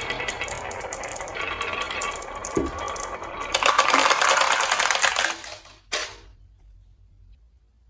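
Marbles rattling and clattering down a wooden marble-run track, a dense run of small clicks that grows louder about halfway through, then stops suddenly, followed by one last sharp click.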